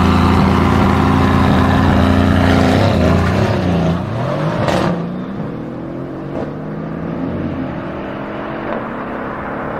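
Mercedes-AMG C63 S coupe and an AMG S-Class cabriolet held at high revs side by side, engines loud and steady, then launching about four seconds in with a sharp crack just after. The engines then fade with their pitch climbing as the cars accelerate away down the strip.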